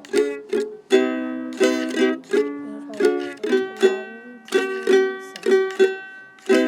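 Ukulele strumming chords in a steady rhythm, each strum sharp at the start and ringing on until the next.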